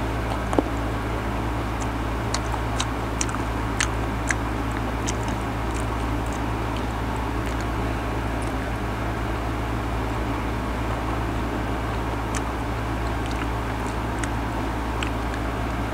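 Close-up mouth sounds of biting into and chewing slices of mango: small wet clicks and smacks, clustered near the start and again near the end, over a steady low hum.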